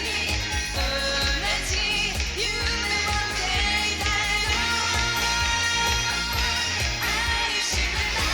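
Japanese pop song with singing over a steady dance beat.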